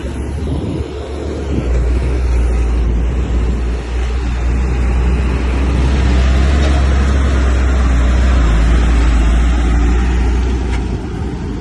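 Heavy diesel engine of earthmoving machinery running under load, a deep steady drone with dense mechanical noise. It grows louder about two seconds in and eases off near the end.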